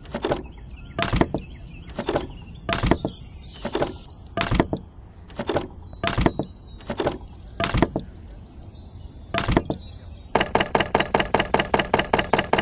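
Small dry wooden sticks knocking together as they are lifted out of a toy trailer and set down in a pile: a dozen or so separate clacks, then a quick run of about seven clicks a second near the end.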